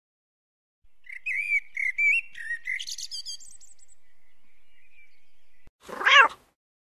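A small bird chirping: a quick run of short, high tweets, fading into a faint thin trill. Near the end comes a single brief, loud animal call.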